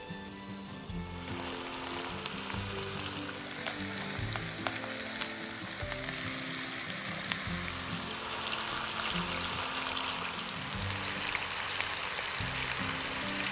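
Hot oil sizzling in a frying pan with fried chicken pieces, garlic and dried red chilies. The sizzle grows louder about a second in, with scattered sharp pops. Background music plays low underneath.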